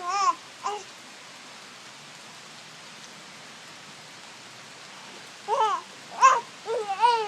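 Short sing-song vocal sounds from a small child, rising and falling in pitch: a couple near the start and about five more from about five seconds in. They sound over a steady hiss of falling rain.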